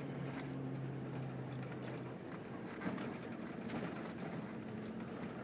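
Car running, heard from inside the cabin: a steady engine hum under road noise, with scattered light clicks and jingles of small things rattling.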